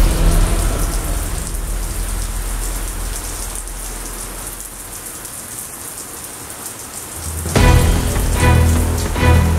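Steady rain falling, a hiss spread across all pitches that slowly grows quieter. About seven and a half seconds in, music comes in over it.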